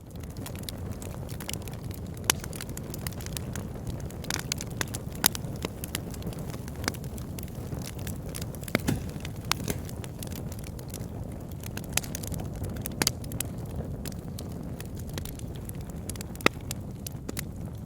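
Wood fire burning in a fireplace: a steady low rumble of flames with frequent crackles and pops, and a few louder snaps scattered through.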